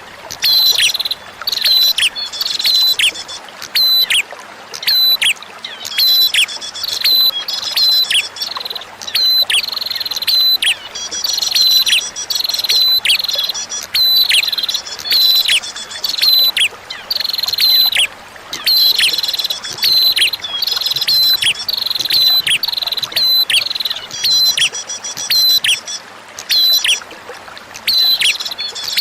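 Prinia (prenjak) singing: bursts of short, sharp notes, each dropping steeply in pitch, repeated about once a second, over a steady trickle of flowing water.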